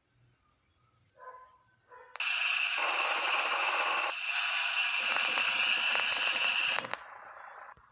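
Scania 113 truck's air system letting out compressed air in one loud, steady hiss of about four and a half seconds, which cuts off sharply.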